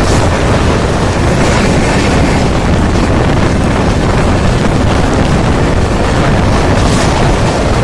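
Loud, steady rush of wind buffeting the microphone at an open coach window, over the running noise of an express train at high speed.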